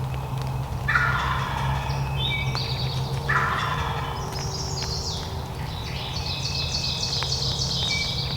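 Wild turkey tom gobbling twice, about a second in and again about two seconds later, each gobble a rapid rattling run of notes.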